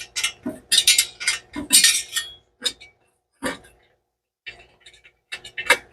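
An exhaust header being wiggled loose in the engine bay: metal clinking and knocking against metal in an irregular run of sharp clinks, with a short pause a little past halfway.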